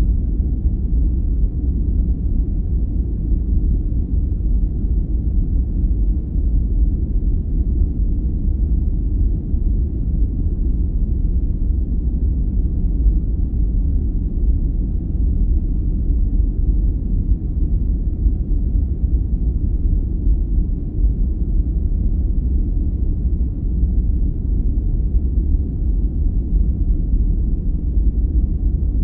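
Steady, deep noise for sleep, unchanging, with no tones or events; its weight sits low in the bass and it has almost no treble, closer to brown noise than to hissy white noise.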